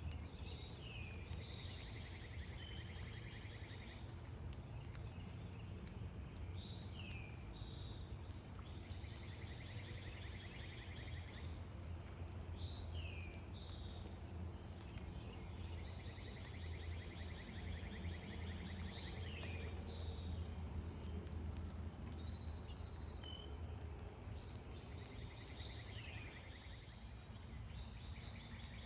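A songbird singing the same song over and over, about every six seconds: a few quick sliding notes, then a trill of about two seconds. Under it runs a steady low rumble.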